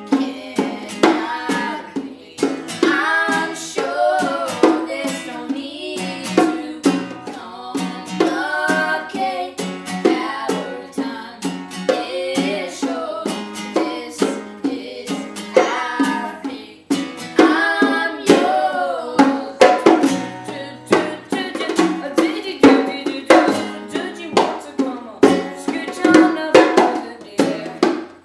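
Live acoustic pop song: a string instrument strummed in a steady rhythm, with a sung melody over it.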